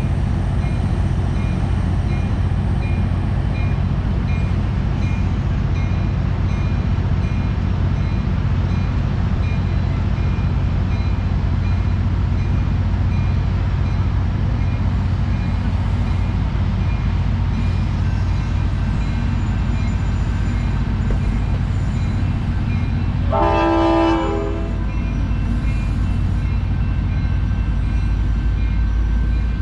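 Amtrak San Joaquins diesel passenger train running along the platform with a steady low rumble. A bell dings about twice a second through the first twelve seconds, and the locomotive's horn gives a short blast about 24 seconds in, with another blast starting at the very end.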